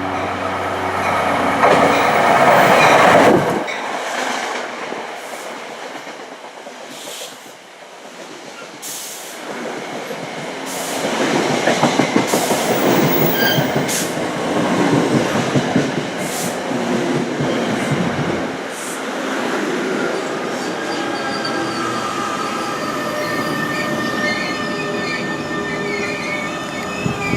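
Electric passenger trains passing at speed on the main line: one rushes by and cuts off sharply about three and a half seconds in, then another passes from about ten to eighteen seconds with a steady rushing roar and sharp clicks of wheels over the rail. Thin, high squealing tones come in over the last few seconds.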